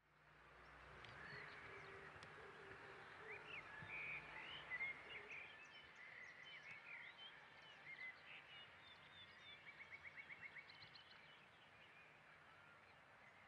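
Faint outdoor ambience with birds chirping in short calls and whistles, including a rapid trill of repeated notes a little past the middle.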